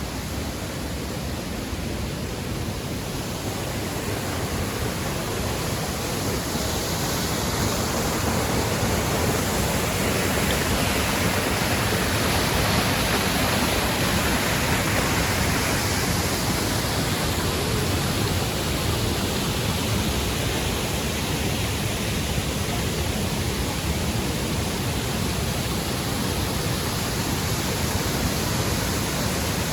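Falling water of the Triberg waterfalls rushing steadily, a continuous hiss of water with no breaks, growing a little louder over the first several seconds.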